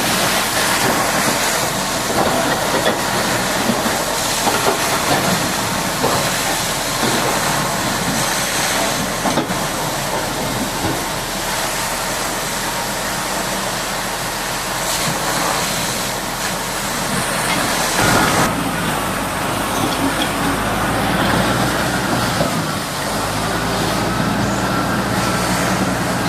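Steady hiss of a high-pressure water jet washing down a bulldozer. About eighteen seconds in, a low engine hum and a wavering high whine join it.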